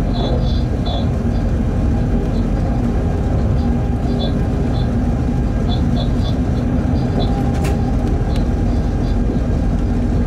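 Freight train cab running noise at speed: a steady rumble with a low hum, and irregular short high chirps scattered through it.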